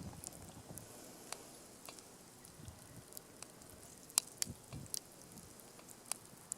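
Wood fire crackling: irregular sharp pops and snaps over a faint hiss, the loudest snap about four seconds in.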